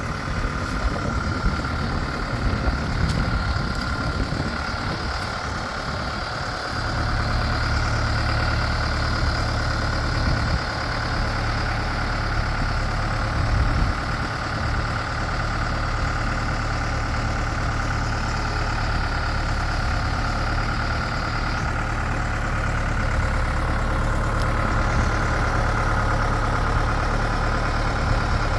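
Tractor engine running steadily, a low drone that evens out and gets a little louder about seven seconds in, with a steady higher whine over it.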